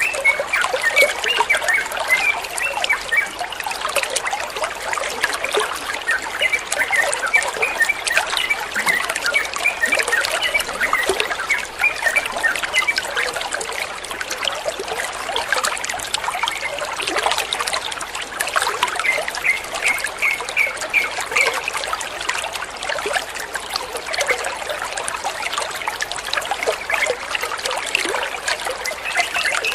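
Water trickling and running steadily, with bursts of quick, high bird chirps over it every few seconds.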